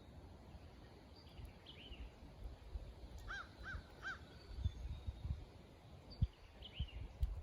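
A bird gives three short, harsh calls in quick succession, about a third of a second apart, in the middle. Fainter chirps from other birds come before and after, over a steady low rumble, with a single low thump near the end.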